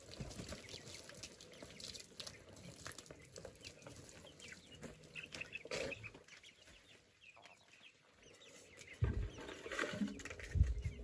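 Chickens clucking softly with short, repeated calls. A few louder low knocks come near the end.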